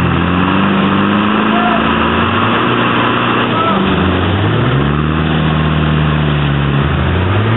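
Off-road 4x4's engine revving under load in a muddy creek bed, its pitch climbing and holding, dropping about halfway, then climbing again and falling near the end.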